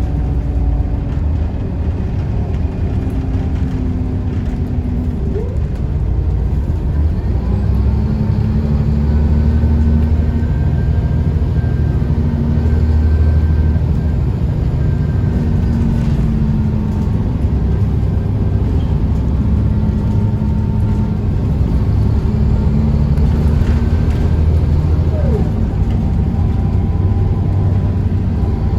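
Scania L94UB bus's DSC9 nine-litre six-cylinder diesel engine running steadily under way, driving through a ZF 5HP590 automatic gearbox. The engine note shifts in pitch a few times along the way.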